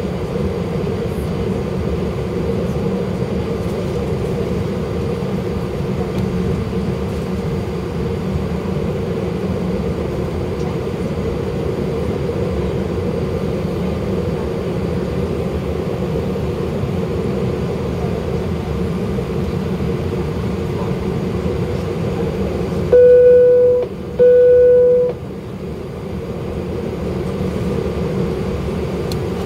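Steady cabin noise of a British Airways Airbus A319 taxiing, the engines and air conditioning giving a constant rumble with a hum. Near the end, two loud steady beeps of about a second each, at the same pitch.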